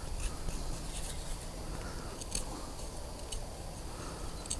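Knife whittling a wooden stick into a forked support: faint scraping cuts with a few scattered sharp clicks at irregular intervals.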